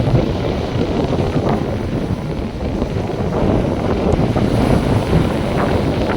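Wind buffeting the microphone over the steady wash of North Sea surf, a rough, gusting rumble.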